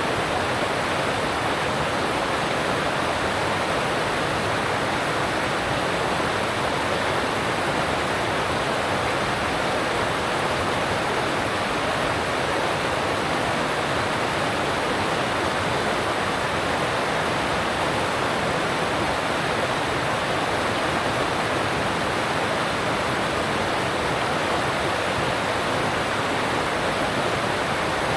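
Alpine mountain stream rushing steadily over rocks, an even, unbroken rush of water.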